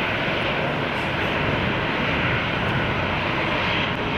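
Airbus A380 landing: the steady, loud noise of its four jet engines, with no change in level.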